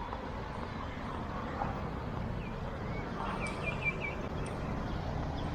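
Street ambience of a busy road: a steady low traffic rumble, with a short run of high chirps about three and a half seconds in.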